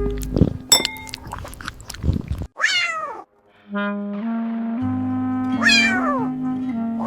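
Cat meowing twice, each a short cry that falls in pitch, over background music; a few sharp clicks come in the first two seconds, and the music cuts out briefly before the first meow.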